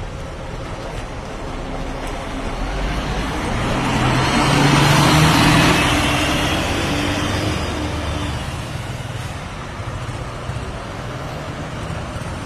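Scania bus driving past, its engine and tyre noise swelling to a peak about five seconds in and then fading away.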